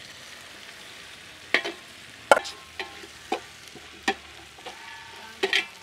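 Sliced onions and chopped tomatoes sizzling steadily in ghee in a large metal biryani pot, with about six sharp metal knocks and scrapes against the pot as the mixture is stirred. The loudest knock comes about two seconds in.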